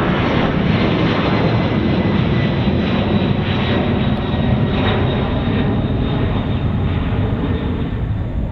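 Jet airliner's engines running at takeoff thrust on departure: a steady, loud rush with thin high whining fan tones, easing slightly near the end.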